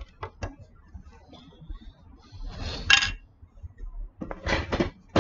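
Plastic toy building bricks clicking and clattering as they are handled: a few sharp clicks, then two short clattering rustles.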